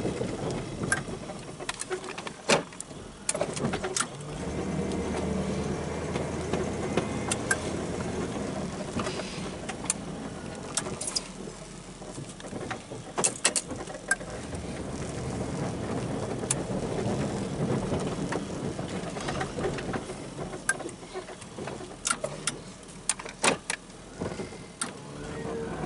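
Engine of a snow-plowing vehicle running while it plows, swelling and easing in level, with scattered sharp clicks and knocks.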